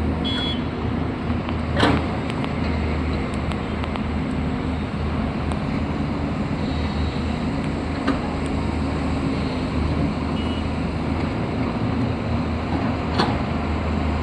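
A machine running with a steady low hum that pulses on and off, and a few sharp clicks, one about two seconds in and another near the end.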